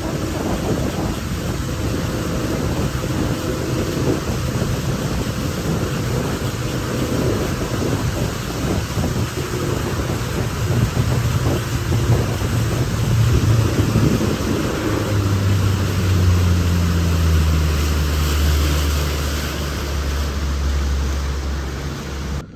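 Small boat's outboard motor running under way, with heavy wind noise on the microphone; the engine note drops lower about two-thirds of the way through.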